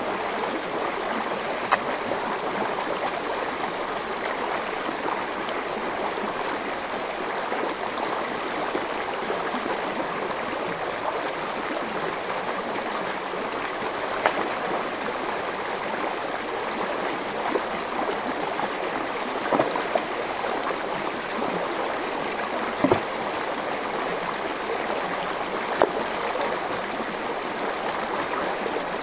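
A small forest stream flowing over rocks: a steady, even rush of running water, with a handful of brief, sharper splashes standing out now and then.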